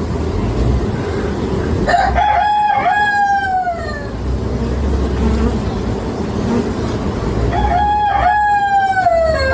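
Two long calls, about two seconds each and some six seconds apart, each held steady and then falling in pitch at the end, over a steady low rumble.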